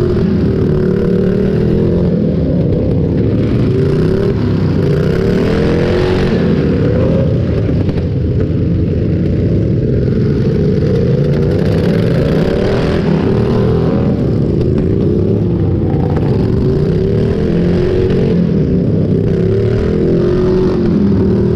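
Several small lawn-tractor engines running and revving at once, their pitches rising and falling over one another.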